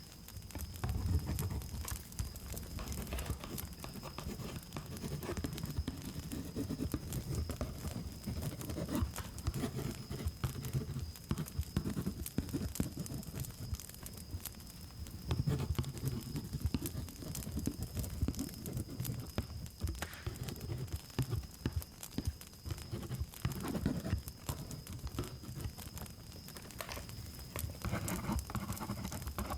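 Close-miked ASMR trigger sounds: dense, irregular rustling and scratching with many small clicks, like brushing or crinkling right on the microphone. A steady high cricket drone runs underneath.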